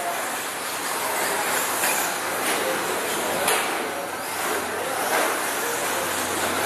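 Pro 2 class electric RC short-course trucks racing on a dirt track: a steady high whirring of motors and tyres, with a few faint knocks from landings or contact.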